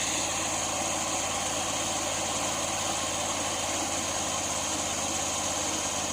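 An engine idling steadily, its even firing pulse unchanged throughout.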